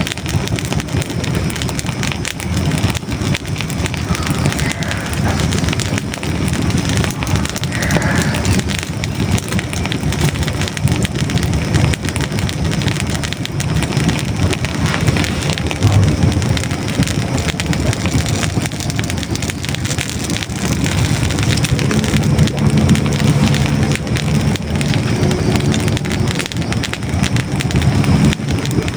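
Hardwood logs burning in a fireplace: dense, irregular crackling and popping over a steady low rumble of flames.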